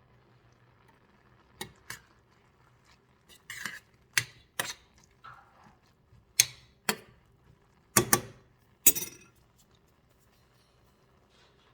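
Dishes and utensils clinking and knocking in a kitchen: about a dozen short, sharp hits, some in quick pairs, spread over several seconds.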